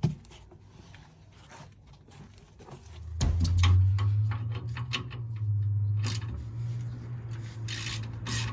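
Metal tools scraping and rubbing on a tight threaded suspension adjuster. From about three seconds in, a steady low hum runs under scattered clicks and scrapes.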